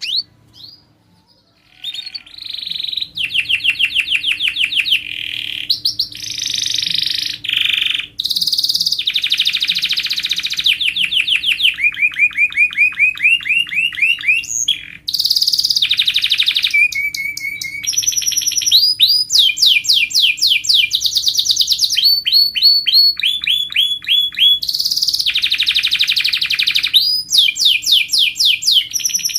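Domestic canary singing a long, unbroken song of fast trills. Each phrase is a quick run of repeated notes, and the bird switches to a new pitch and pattern every second or two after a short break about a second in.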